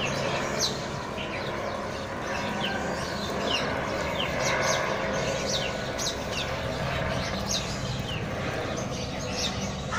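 Small birds chirping: short, high chirps that sweep downward, about one or two a second, over a steady low hum.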